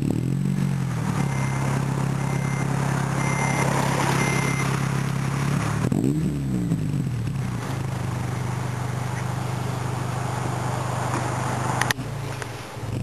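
Honda Civic Si engine running through a Skunk2 70 mm aftermarket exhaust, settling from its start-up rev to a steady idle. About six seconds in, a single brief rev rises and falls back to idle, and a short rev starts again near the end.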